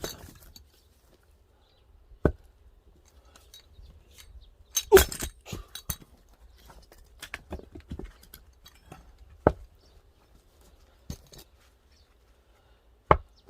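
An axe chopping firewood: several sharp single blows a few seconds apart, with smaller knocks and clatter of wood between them.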